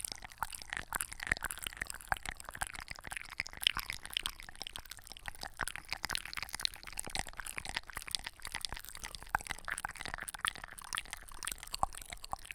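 Close-miked ASMR trigger sounds: a dense, irregular run of small crackles and clicks, crisp and high, with no voice.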